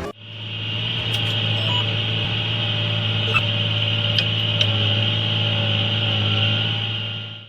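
A machine running with a steady low hum and a high whine, with a few faint clicks over it.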